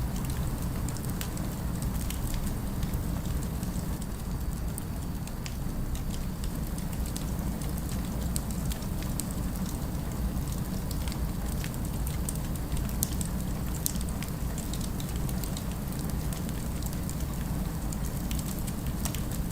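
Fire crackling: a continual scatter of small sharp pops and crackles over a steady low rumble of city ambience.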